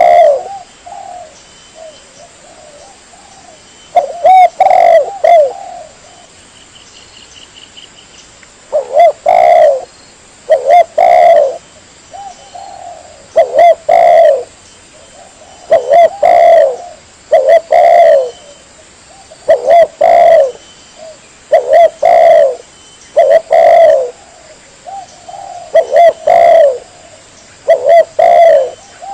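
Spotted dove (tekukur) cooing: loud, repeated cooing phrases of a few notes each, coming about every two seconds, with longer gaps in the first few seconds. This is the bird's lure call, used to draw in other doves.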